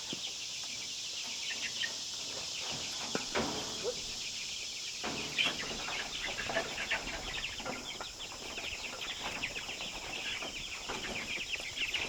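A flock of Ranger meat chickens clucking and cheeping, the short high calls thickening into a busy stream from about five seconds in.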